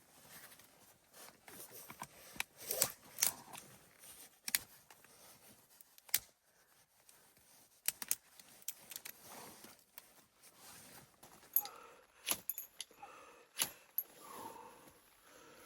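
A run of irregular sharp clicks and light clinks, like small hard objects being handled and knocked together, loudest around three seconds in and again near the end.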